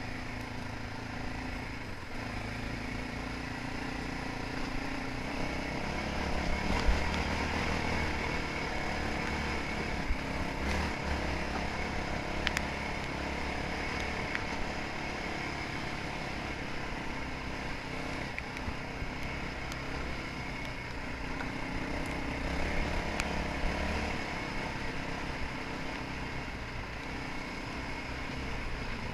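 Motocross dirt bike engine running as it is ridden, its pitch shifting up and down with the throttle.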